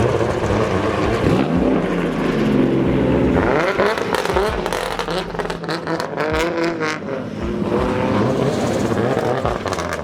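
Car engines running and revving, their pitch rising and falling several times over a steady rumble.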